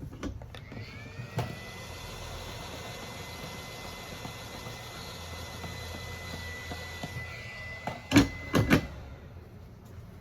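A small electric motor spins up to a steady high whine with a hiss under it for about eight seconds, then stops with a few sharp clicks.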